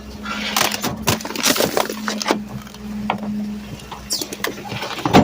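Garbage truck running, with a steady low engine hum under a string of clanks and rattles, a brief high squeak about four seconds in, and a hard knock near the end.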